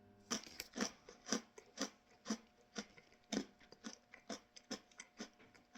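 Crunchy chewing of a pretzel twist, about two chews a second, the crunches getting softer toward the end. A faint steady hum lies underneath.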